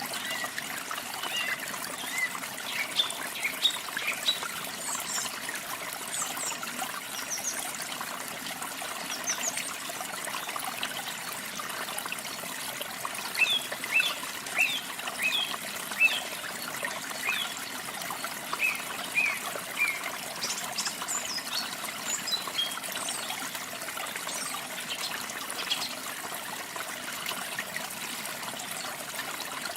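Small waterfall splashing and trickling steadily, with songbirds chirping and trilling over it in short bursts that crowd together about halfway through and again a little later.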